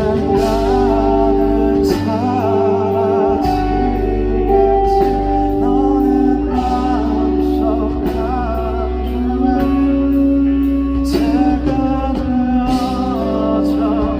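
Live band playing a slow song, with long held chords under a singing voice whose melody has no clear words.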